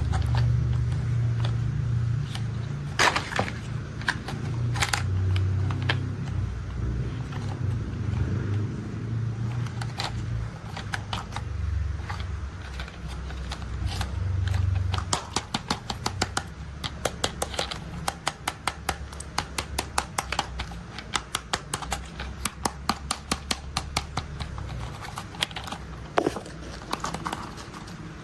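Toy construction vehicle being played with: a low rumble with a few clicks, then from about halfway a rapid run of sharp plastic clicks, several a second.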